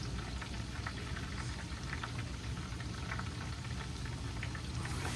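Faint soft crackling of chicken wings sizzling as they cook, with scattered small ticks over a steady low hum.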